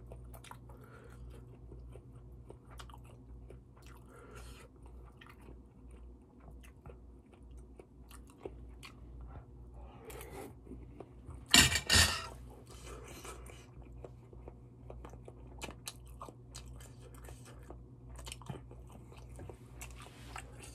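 A person chewing malatang close to the microphone: scattered soft mouth clicks and crunches, with one louder noisy sound about halfway through. A steady low hum runs underneath.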